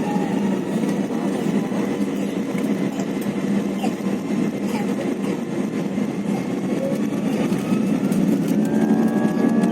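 Airliner engines running with a steady drone and hum; near the end a higher whine starts to rise as the engines begin to spool up.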